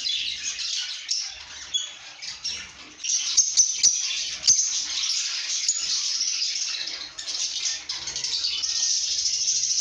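Lovebirds chirping and chattering in fast, high-pitched twittering, which thickens into a continuous chatter about three seconds in. A few sharp clicks are mixed in.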